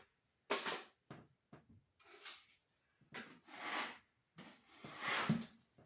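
Putty knife scraping wet joint compound over mesh tape on a drywall patch: several separate spreading strokes, each under a second long, the last ones the longest.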